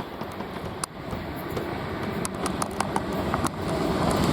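A Class 455 electric multiple unit approaching along the line, its running noise growing steadily louder. Several sharp clicks from a camera tripod sound over it.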